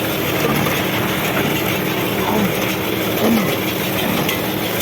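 Tractor engine running steadily, a loud even mechanical noise with no change through the few seconds.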